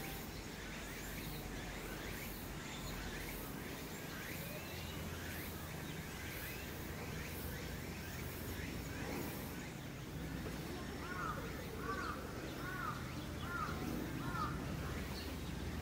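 Birds calling outdoors: a run of quick, repeated chirps, then about five arched call notes near the end, over a steady low background hum.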